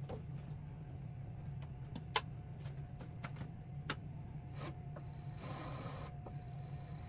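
Steady low motor hum with scattered sharp clicks, two louder ones about two and four seconds in, and a short scraping hiss about five and a half seconds in.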